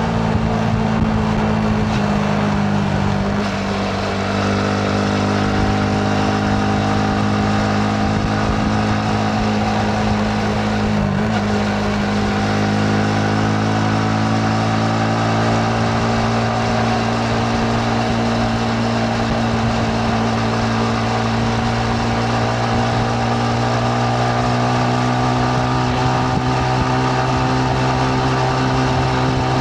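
Yamaha MT-15's single-cylinder engine running under way at moderate revs, heard from the rider's position, with wind and road noise. The engine note dips briefly about four seconds in, then holds with slight rises and falls in pitch.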